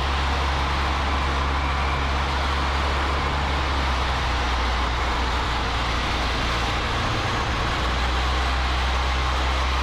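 Cessna 152's four-cylinder Lycoming engine and propeller droning steadily in flight, heard in the cockpit over a constant rush of airflow, with a slight shift in the engine note about seven seconds in.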